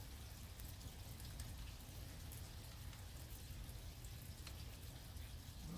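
Faint light rain, with scattered raindrops ticking over a steady low rumble.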